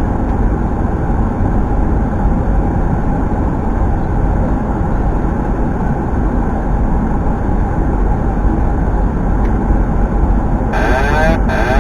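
Steady loud rush of airflow and engine noise inside a Boeing 737-800's flight deck. A voice breaks in near the end.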